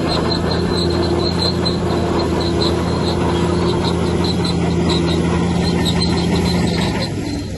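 Heavy earthmoving machinery, a bulldozer's diesel engine, running steadily with a rapid, regular high-pitched squeak of about four a second. The sound dips briefly near the end.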